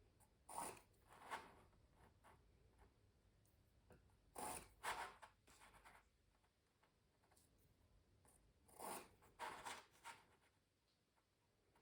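Pencil scratching on canvas in short strokes that come in small groups of two or three, with quiet pauses between the groups.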